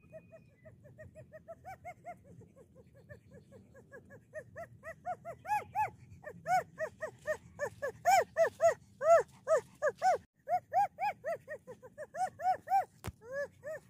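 A dog giving a long run of short, high-pitched yips or yelps, about three or four a second, growing louder about halfway through, with a brief break near the end.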